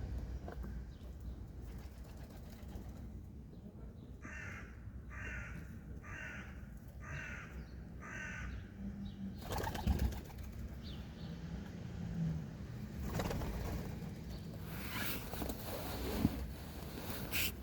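A bird calls five times in an even series, about one call a second, over a steady low city background. A few short noisy sounds follow later.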